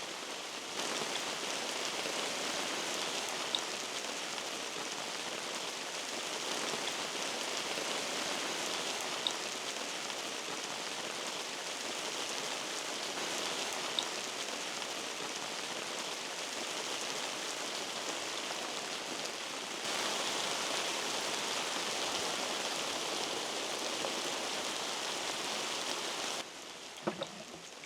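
Heavy hail and rain pelting down: a steady, dense patter with a few sharper ticks standing out, dropping quieter shortly before the end.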